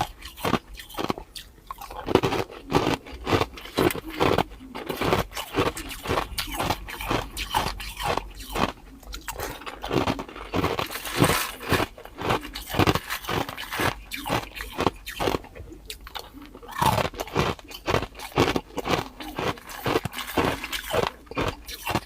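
Clear ice being bitten and chewed close to the microphone: a continuous run of sharp, irregular crunches, several a second.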